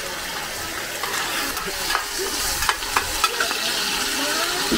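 Mussels and batter for hoi tod (crispy fried mussel pancake) sizzling in oil on a large flat pan, with metal spatulas scraping and clinking against the pan several times.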